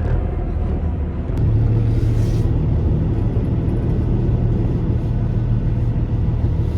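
Semi truck's diesel engine running with a steady low rumble, its hum growing stronger about a second and a half in.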